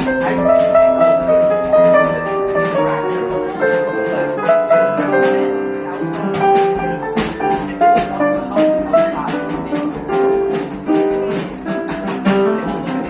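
Small jazz band playing live: guitar and keyboard chords under a held melody line, with light, steady percussion ticking.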